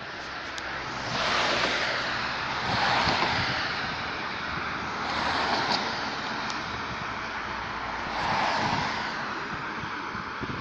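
Surf washing on a shore, a rushing noise that swells and fades about four times, every two to three seconds.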